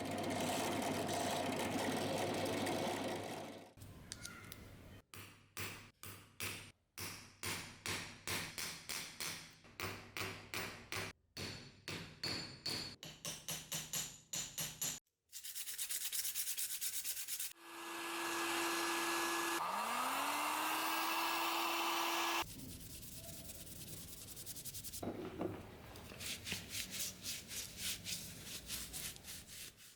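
Hand sanding or filing: rhythmic back-and-forth rubbing strokes, about two a second. They alternate with stretches of steady grinding noise and a small electric motor that spins up, runs steadily, then cuts off suddenly about two-thirds of the way through.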